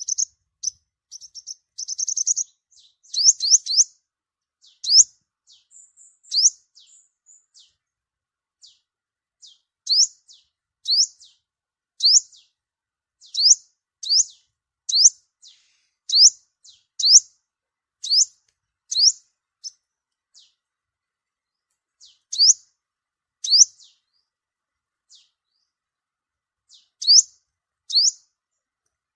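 Sunbird giving short, high, sharp chirps, about one a second, with a quick rapid run of notes about two seconds in and sparser calls in the last third: a flock-gathering contact call.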